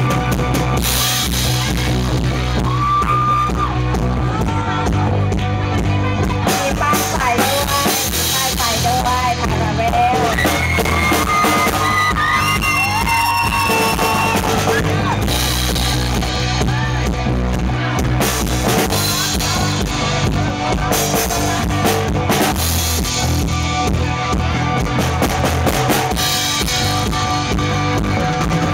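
A rock band playing live without vocals: drum kit and bass under a full band sound, with a melodic lead line in the middle.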